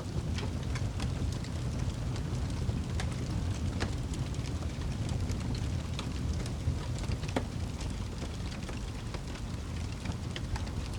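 Fire crackling: irregular small pops and snaps over a steady low rumble.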